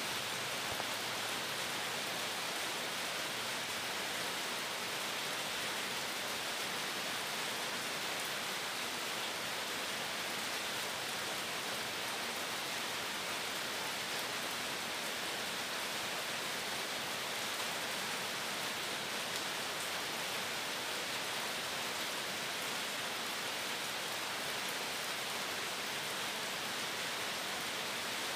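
Steady, even hiss-like noise without any clicks or shots, much like rain.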